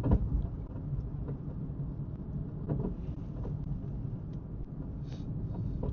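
A car driving along: steady low road and engine rumble from the moving car.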